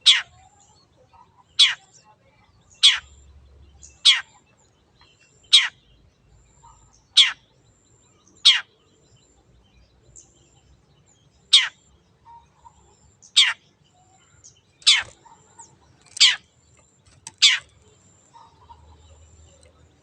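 Long-tailed shrike (cendet) giving about a dozen short, sharp calls, each a quick downward sweep in pitch, repeated every second or so with a longer pause midway.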